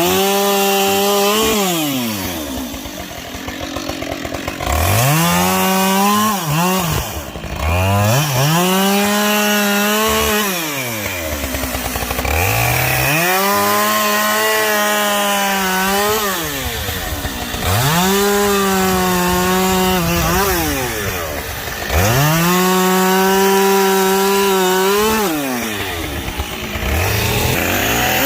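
Two-stroke chainsaw bucking logs into firewood rounds. It revs up to full throttle and holds a steady high pitch through each cut of two to four seconds, then drops back toward idle between cuts, about six cuts in all.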